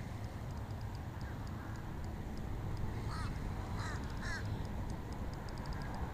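A few short bird calls, three of them close together about three to four and a half seconds in, over a steady low rumble of wind on the microphone.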